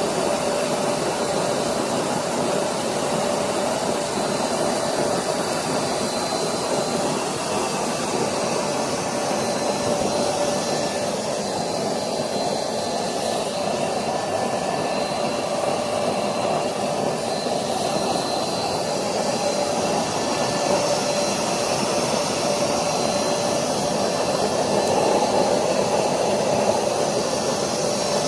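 Waste-engine-oil furnace (bhati) running with its electric air blower: a steady rushing noise with a constant hum and a faint high whistle.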